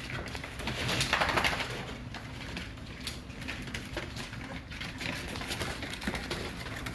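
Four-week-old American bully puppies making small squeaks and grunts, with short scuffling noises as they move about.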